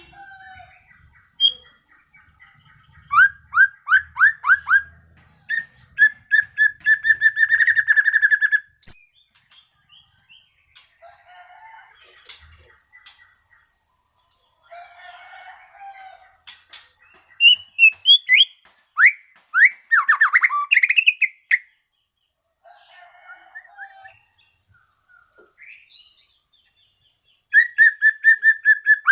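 White-rumped shama of the long-tailed Medan type (muray medan) singing: bursts of fast repeated notes and trills mixed with quick falling and rising whistles, broken by short pauses.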